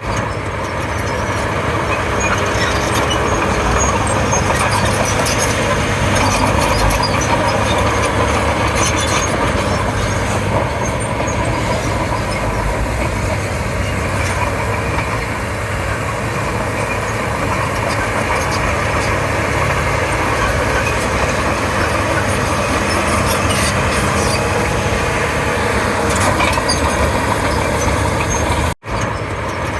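Crawler bulldozer's diesel engine running steadily under load as it works.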